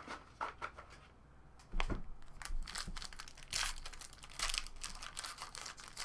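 A baseball card pack's wrapper torn open and crinkled, with cards handled, in a run of irregular rustles and crackles. There is a low thump about two seconds in.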